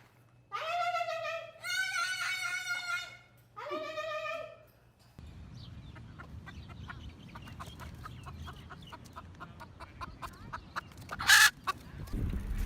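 A bird gives three long, drawn-out calls in a row, each about a second long and rich in overtones. They are followed by a faint stretch of scattered clicks and rustling, with one sharp loud noise near the end.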